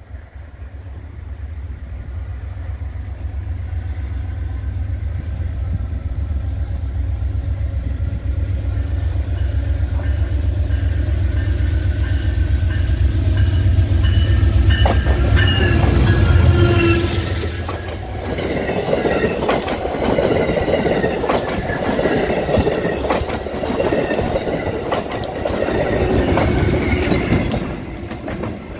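Amtrak GE Genesis diesel locomotive approaching, its engine rumble growing steadily louder until it passes about two-thirds of the way through. The passenger cars then roll by with repeated clickety-clack of wheels over rail joints and a rattling rush.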